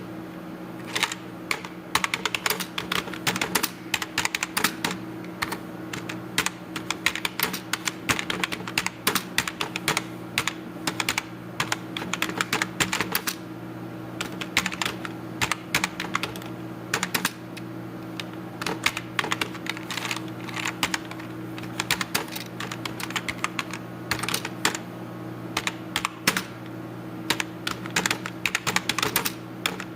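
Computer keyboard typing in quick flurries of key clicks with short pauses between bursts, over a steady low hum.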